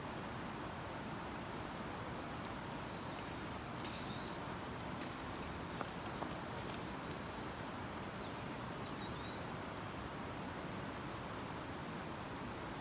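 Steady rush of running river water, with a bird singing the same phrase twice: a held high whistle ending in a quick up-and-down flourish. Faint scattered crackles from the campfire.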